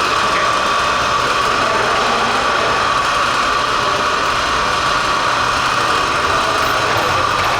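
Motor of an RC pulling vehicle running with a steady high whine.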